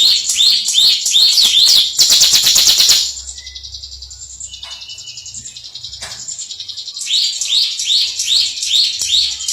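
Bar-winged prinia (ciblek/prenjak) singing: a run of sharp rising notes about three a second, breaking about two seconds in into a fast buzzing trill, the 'ngebren' drilling song. The bird then goes quiet for a few seconds with only a couple of faint notes before the repeated rising notes start again.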